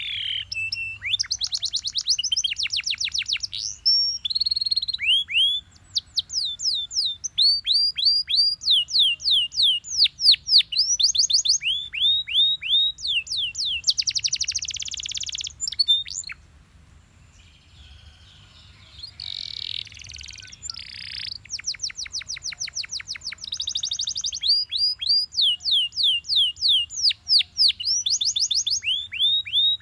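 Belgian canary singing: phrases of rapid, repeated downward-sweeping whistled notes, with a couple of dense buzzy rolls, and a pause of about two seconds just past the middle.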